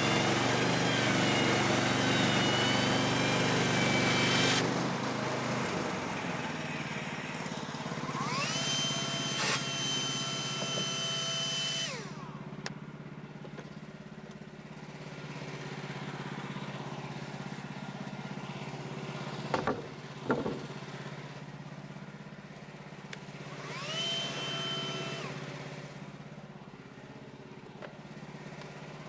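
Portable bandsaw sawmill's small gas engine running hard for the first few seconds, then dropping to idle; twice it is throttled up, with a whine that rises and holds for a few seconds before falling back. Two sharp knocks sound near the middle.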